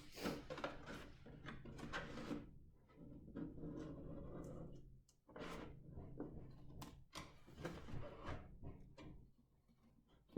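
Scissors cutting through a milk carton: irregular snips and clicks with rustling of the carton, faint.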